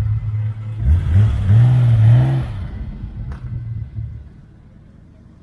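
Classic Porsche 911 driving past and accelerating away. Its engine note rises in pitch in two steps about a second in, is loudest around two seconds, then fades as the car pulls away.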